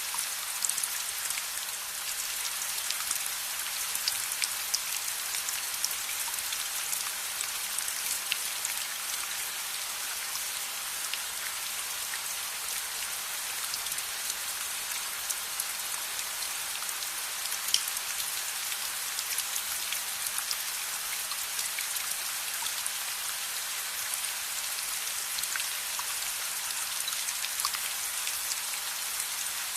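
Steady rain falling: a dense, even hiss with many scattered sharp ticks of individual drops.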